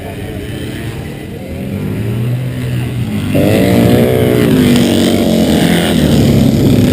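Motorcycle engines running, getting louder; about three seconds in a louder engine comes in suddenly, its pitch rising and falling a little.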